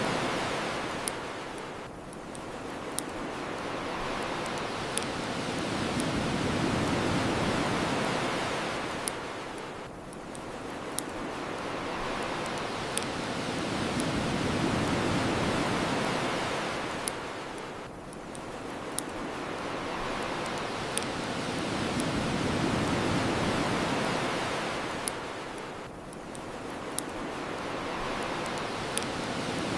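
Ocean waves washing onto a shore in slow, even swells about every eight seconds, with the sharp pops of a crackling bonfire.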